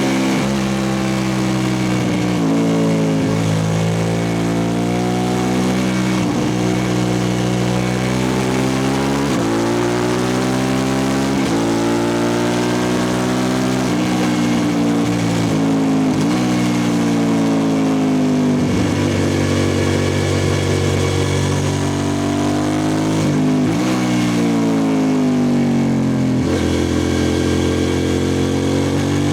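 2003 Suzuki SV650S's V-twin engine breathing through a Lextek exhaust with the dB killer removed, running loud under way. Its note climbs and falls repeatedly, with sudden steps in pitch every few seconds, as the throttle is worked and gears change.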